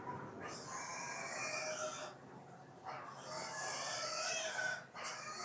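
Chewing close to the microphone, with two long, wavering animal calls behind it, the second starting about three seconds in.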